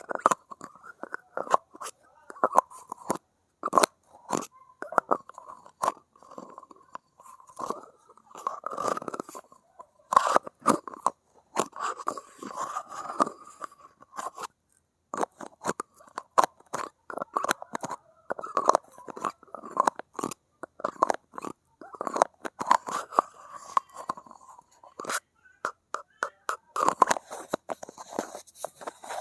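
Close-miked fingernail tapping and scratching on hard objects: quick irregular clicks, several a second, mixed with a scratchy rasp.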